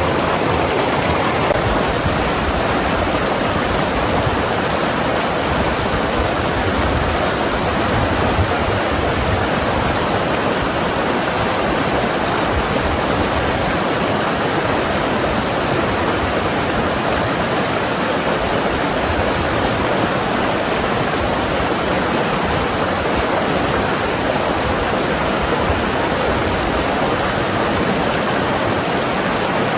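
Mountain river rushing and gurgling over rocks, a steady, even water noise.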